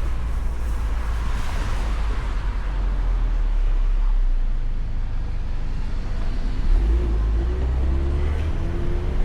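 Ford Mustang convertible driving with the top down: a steady low rumble of engine and road noise, with a faint wavering tone coming in about seven seconds in.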